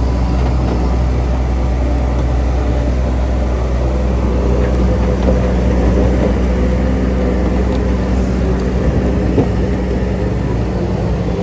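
Heavy diesel engine of earthmoving machinery running steadily under load, with a few short knocks partway through.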